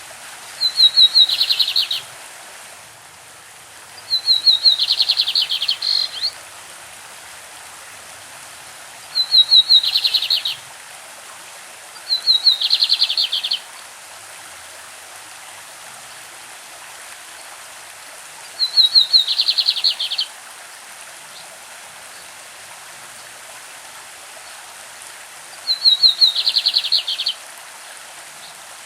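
Lined seedeater (bigodinho) singing its classic song: six short phrases, each a rapid run of repeated notes lasting about a second and a half, with pauses of a few seconds between, over the steady rush of a stream.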